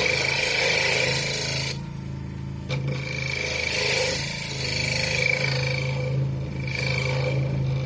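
Wood lathe motor humming steadily while a turning tool cuts into a spinning pine bowl blank, a rough scraping hiss. The cutting stops for about a second about two seconds in, leaving only the motor hum, then resumes.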